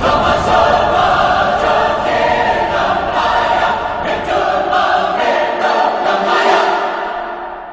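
Background music of a choir singing sustained chords, fading out near the end.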